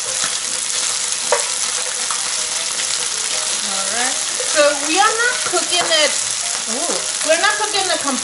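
Chicken pieces sizzling steadily in hot oil in a frying pan, stirred with a wooden spatula, with the odd light tap of the spatula. In the second half a high, wavering voice-like sound rises and falls twice over the sizzle.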